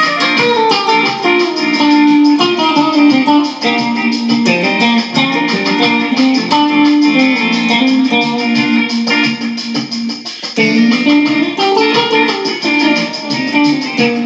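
Guitar playing a busy melodic line of quick single notes, opening with a run that falls in pitch.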